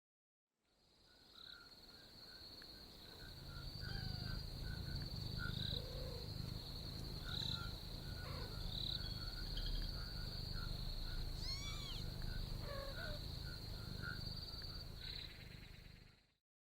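Night nature ambience: a steady high chirring of crickets or other insects with a second pulsing chirp beneath it, a few short bird chirps with falling pitch in the middle, over a low rumble. It fades in about a second in and fades out shortly before the end.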